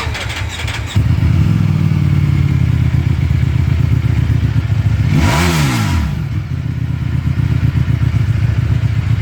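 Ducati Panigale V4 V4 engine on its stock exhaust catching about a second in and settling into a steady idle. A single quick rev about five seconds in rises and drops straight back to idle.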